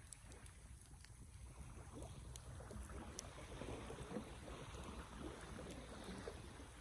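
Wood fire burning: a faint rushing of flames with scattered sharp crackles and pops over a low rumble. The rush swells for a few seconds in the middle.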